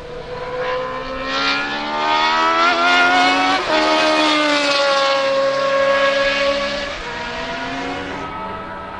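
Historic Formula 1 car's engine at high revs passing by. The note climbs as the car approaches, drops sharply in pitch as it goes past about three and a half seconds in, then holds lower and fades.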